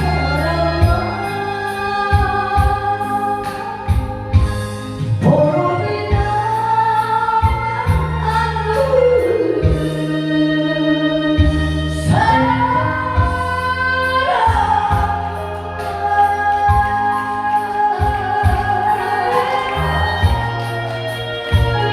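A singer performing a song over an amplified backing track, holding long notes that glide between pitches, with a steady bass line and beat underneath.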